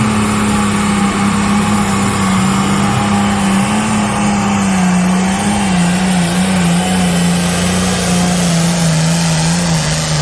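A diesel pulling tractor's engine running hard at high revs under load during a hook, with a steady, slightly wavering pitch.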